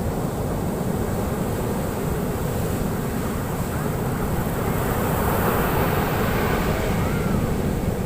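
Ocean surf breaking on a beach: a steady, heavy rumble of waves, with a wave swelling louder about five seconds in.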